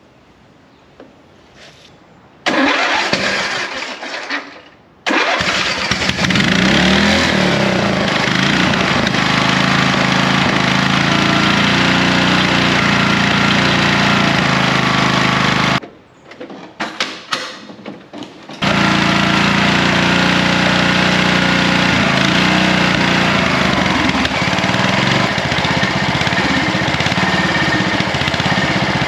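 Riding mower engine started after a head gasket job: it cranks, catches and climbs straight to a high, steady speed, over-revving because its governor is not working at all. It is shut off about halfway through, then started again and runs fast once more.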